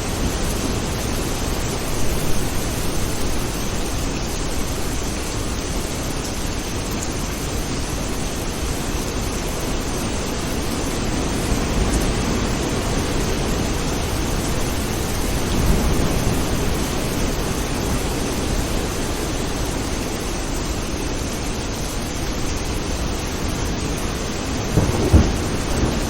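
Steady heavy rain with low rumbles of thunder rolling in a few times, and a sharper thunderclap near the end.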